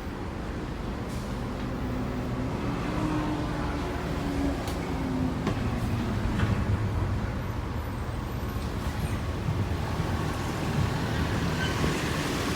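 Steady low rumble of a motor vehicle, with a faint held tone from about two to five seconds in.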